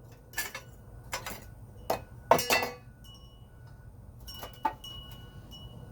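Metal tools and parts clinking and knocking against each other in hand disassembly work, about six sharp, irregular clinks with the loudest a little over two seconds in.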